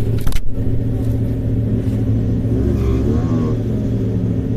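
Vehicle engine and road noise running steadily, with a few knocks just after the start and a brief rev that rises and falls about three seconds in.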